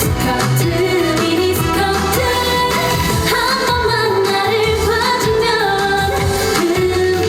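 Korean trot song: a woman sings held, wavering notes over a backing track with a steady beat.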